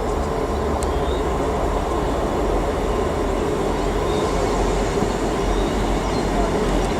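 A train running, a steady rumble with a low drone underneath and no change in level.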